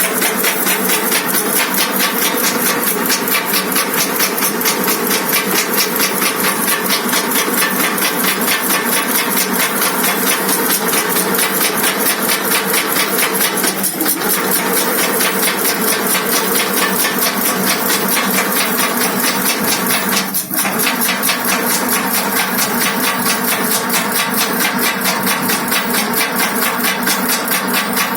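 Automatic agarbatti (incense stick) making machine running, a steady mechanical clatter of strokes at a fast, even rhythm. The rhythm briefly falters twice, about halfway through and again a few seconds later.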